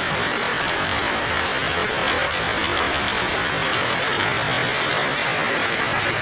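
Steady rain pouring down on leaves and pavement, a dense even hiss that holds at one level.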